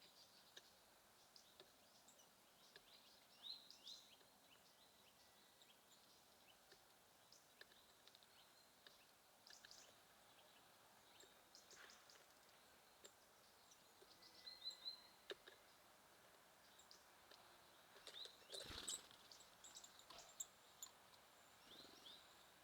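Small songbirds calling faintly: scattered short, high chirps and brief trills, with a single sharp tap about three-quarters of the way through.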